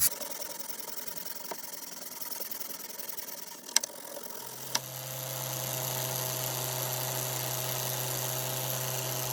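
A couple of sharp clicks, then an electric motor starts about halfway through, spins up over a second and runs with a steady hum.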